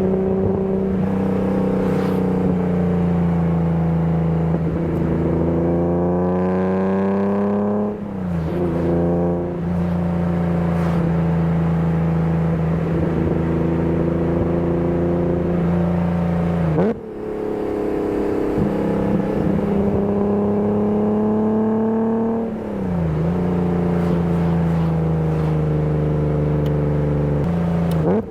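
BMW E30 323i's 2.3-litre straight-six running under load while driving. The revs climb to about eight seconds in and drop sharply at a gear change, then hold steady. They dip suddenly near the seventeen-second mark and rise and fall again at another gear change around twenty-two seconds in.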